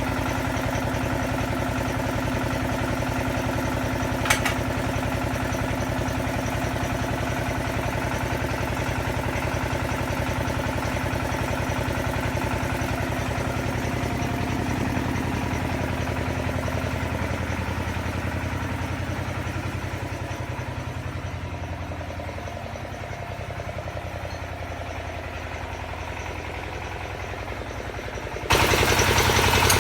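Engine of an XY-1B well-drilling rig running steadily, with a single sharp click a few seconds in. It eases off and grows quieter about two-thirds of the way through, then turns suddenly louder near the end.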